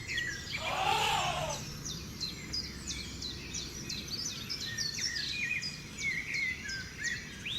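Birds chirping, many short calls one after another, over a low steady background hum. About a second in there is one drawn-out animal call that rises and then falls in pitch.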